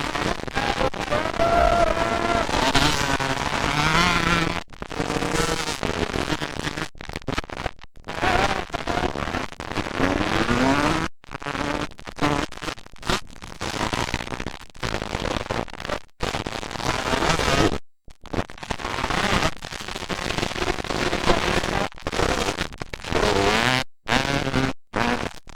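Motocross dirt bike engines revving on the track, their pitch rising and falling as the riders accelerate and back off. The sound drops out briefly many times.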